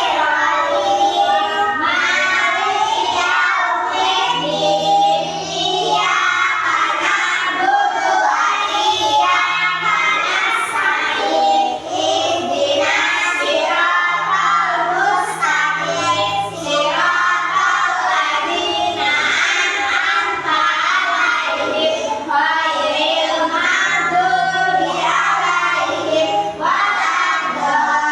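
A group of children singing a song together over an instrumental accompaniment, with steady held low bass notes beneath the voices.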